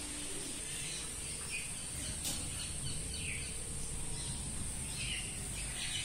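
Birds chirping faintly in short falling calls over a steady high hiss and low background rumble, with a single light click about two seconds in.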